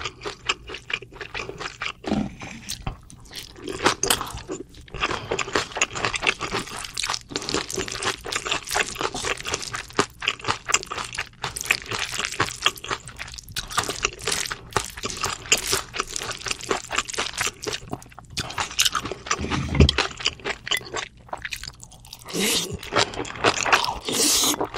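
Close-miked eating of spicy bibimbap and bibim noodles with raw cucumber and red cabbage: rapid wet crunching and chewing, with a single dull thump late on.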